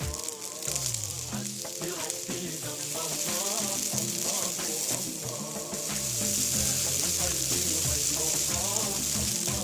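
Bulgur and vermicelli frying in hot fat in a pot, a steady sizzle that grows louder about halfway through.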